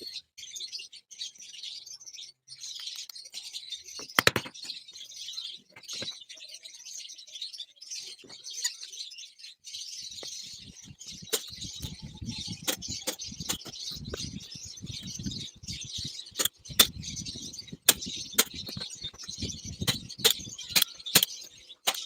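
Small birds chirping and chattering continuously. From about ten seconds in there is rustling, with a run of sharp clicks.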